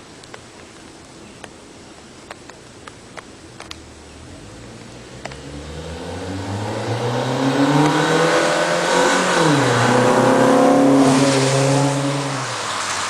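2005 Acura TSX's K24A2 four-cylinder engine breathing through a Fujitsubo exhaust, high-flow catalytic converter and Comptech headers, accelerating hard. The revs climb, drop sharply with an automatic upshift a little past halfway, climb again and ease off near the end. The first few seconds are quiet apart from a few light clicks.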